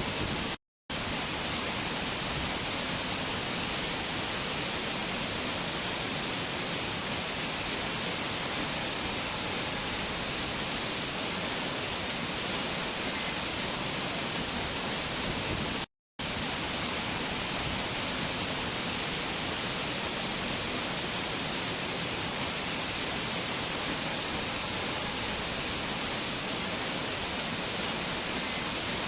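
Waterfall rushing in a steady, even roar of falling water. It drops out to silence for a split second twice, once just under a second in and once about halfway through.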